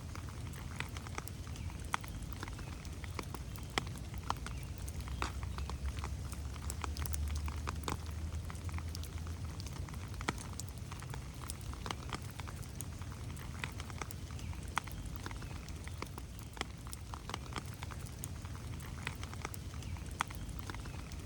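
Rain dripping and pattering on forest leaves and ferns: scattered sharp drop hits over a steady low rumble that swells for a few seconds about a third of the way in.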